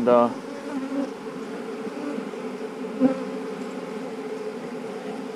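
Honeybees buzzing at an open hive, a steady hum, with a light knock about three seconds in.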